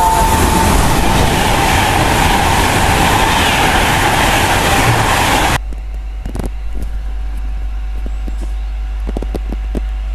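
Class 390 Pendolino electric train passing close at speed: a loud steady rush of wheel and air noise, with the tail of a horn note at the very start. About halfway through the sound cuts off abruptly, leaving a lower steady rumble with a few clicks.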